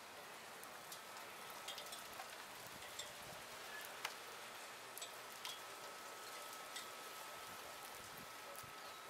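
Light rain: big, scattered raindrops ticking one by one on nearby surfaces, at irregular intervals, over a soft hiss.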